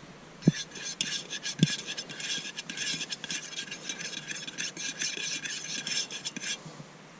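Rapid scratchy rasping, many quick strokes in a row, lasting about six seconds, with two soft thumps near the start.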